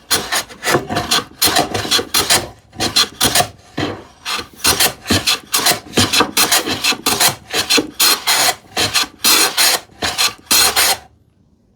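Hand plane taking quick, short shaving strokes along a plywood edge, about three or four rasping strokes a second, stopping about a second before the end.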